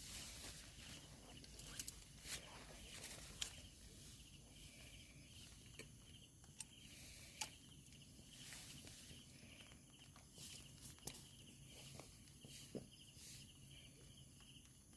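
Near silence: faint, steady insect chirring, with a dozen or so soft clicks and rustles scattered through it.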